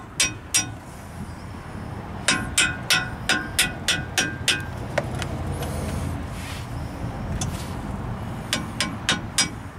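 Steel hammer striking a metal part and punch, driving it home with sharp ringing clinks: a couple of strikes at the start, a quick run of about nine, then a pause, then about four more near the end.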